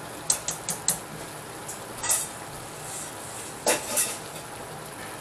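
A skillet of browned ground beef and onions under tomato soup and milk sizzling softly on the stove, with a few light clicks and knocks: several in the first second, one about two seconds in and two more near the end.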